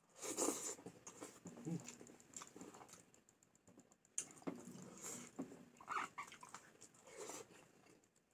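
A person eating close to the microphone: irregular chewing and mouth noises with scattered light clicks.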